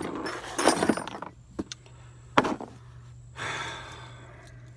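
Small metal hardware and tools clinking and rattling as they are handled, with a sharp knock a couple of seconds in and a short scrape near the end.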